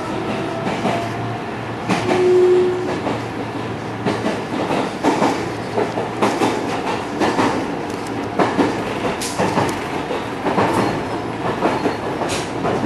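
Interior of a JR West 207 series commuter train under way, heard from inside the car: a steady running rumble with the wheels clacking over rail joints about once a second. A faint motor whine rises slowly at the start.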